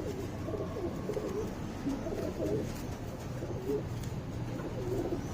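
Several domestic flying pigeons cooing, with short overlapping coos throughout.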